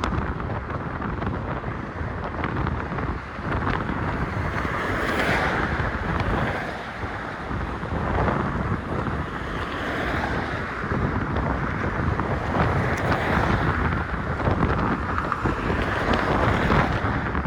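Strong wind buffeting a phone's microphone that is partly covered with a sock, a continuous rushing noise that swells and eases every few seconds.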